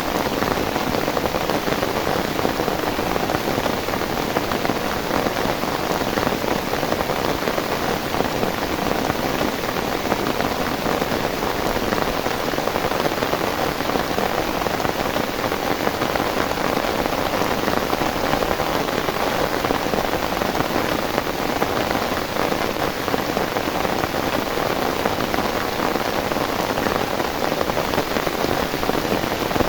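Heavy rain falling steadily and densely, with no letup.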